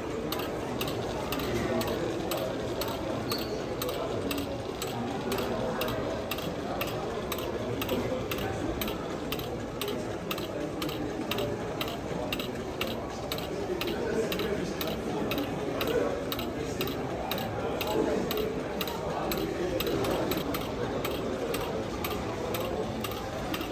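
Indistinct chatter of many visitors in an exhibition hall, with a steady mechanical clicking at about two clicks a second running under it.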